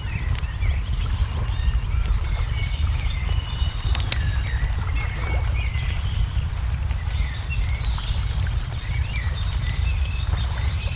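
Wood fire crackling with scattered sharp pops over a steady low rumble, with small birds chirping and twittering throughout.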